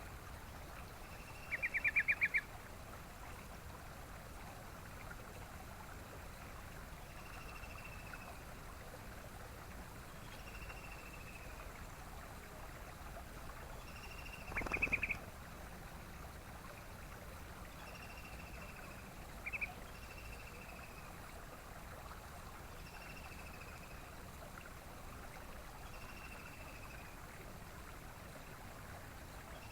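Yellow-vented bulbul calling: short, high whistled notes every few seconds, with louder bursts of quick rattling notes about two seconds in, around fifteen seconds, and briefly near twenty seconds, over a steady background hiss.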